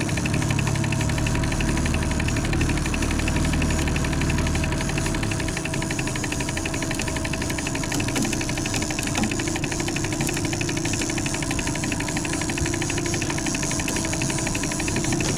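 Boat engine running steadily at trolling speed, with a fast, even pulsing.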